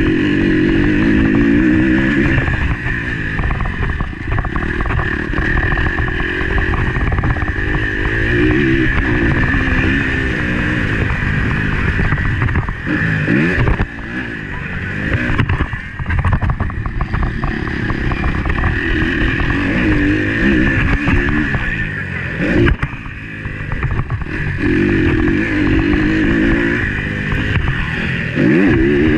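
Motocross bike engine heard from on board while racing, revving up and backing off again and again. A few sharp knocks come through in the middle.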